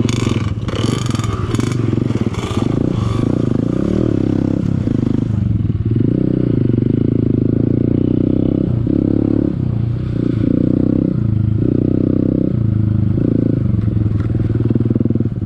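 Honda CRF150L's single-cylinder four-stroke engine running on a trail ride, revs rising and falling as the throttle opens and closes. Some clattering in the first few seconds.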